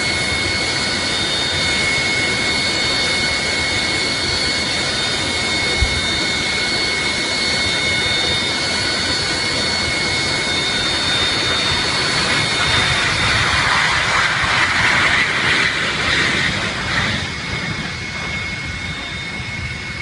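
Jet aircraft engines running loud and steady, a rushing noise with a high turbine whine. The sound swells louder about two-thirds of the way through, then eases off.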